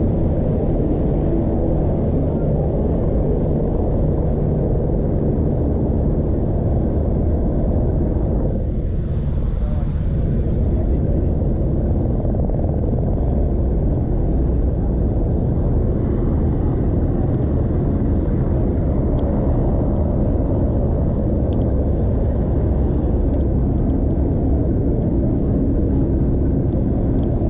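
Wind rushing over a chest-mounted action camera's microphone while cycling: a loud, steady low rumble.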